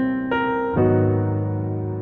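Background piano music: soft sustained notes, a new note or chord struck about a third of a second in and again near the middle, each fading slowly.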